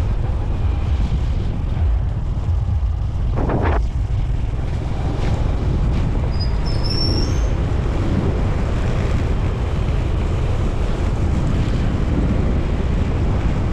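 Wind buffeting the microphone on a moving motorcycle, with the Honda TMX 125 Alpha's single-cylinder engine running underneath. A short pitched sound comes about three and a half seconds in.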